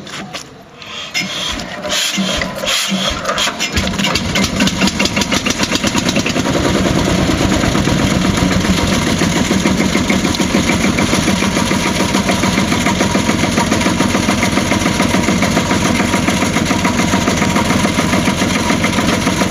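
Field Marshal tractor's single-cylinder two-stroke diesel starting: a few uneven beats in the first seconds, then it catches and settles into a steady, rhythmic run.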